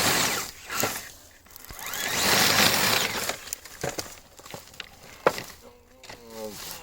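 Rustling and crunching in dry leaves and brush, swelling twice, with scattered clicks and a short voiced sound near the end.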